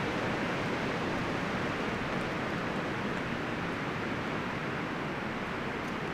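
Wind blowing steadily through forest trees, rustling the leaves and branches in an even rush.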